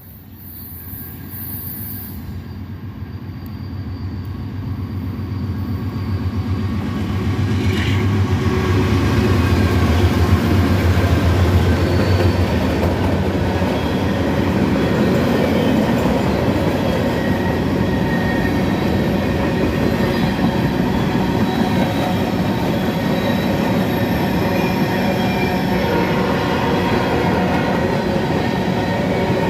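Train coming past the depot: the locomotive's engine grows louder over the first several seconds, then the steady rumble of the cars rolling by carries on.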